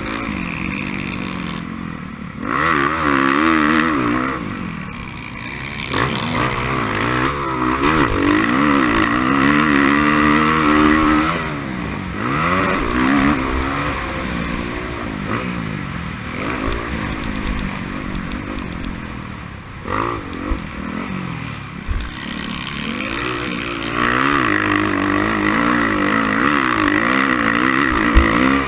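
Racing motorcycle engine revving hard, its pitch climbing and dropping again and again as the throttle opens and shuts and the gears change.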